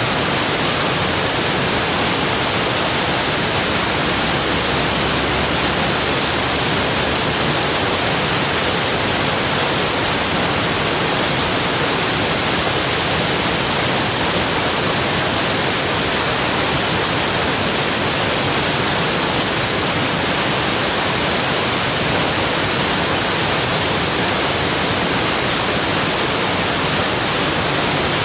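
Water rushing steadily, as from a waterfall: an even, unchanging hiss that covers low to high pitches.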